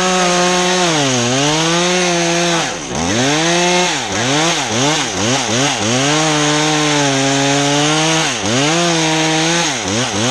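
Two-stroke chainsaw running at high revs while cutting into the pine spar. Its pitch dips and climbs back once about a second in, then again and again in quick succession from about three seconds on, as the throttle is eased and reopened during the cut.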